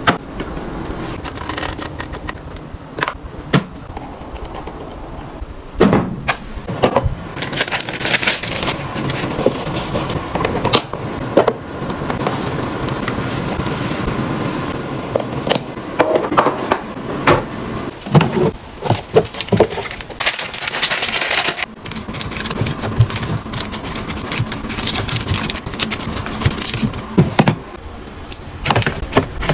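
Household items handled and set down: irregular clicks, taps and knocks of containers, with rustling and two spells of steady hissing noise.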